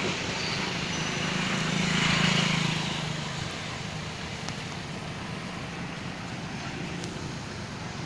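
Motor vehicle engine running with road noise, growing louder about two seconds in and then settling to a steady hum.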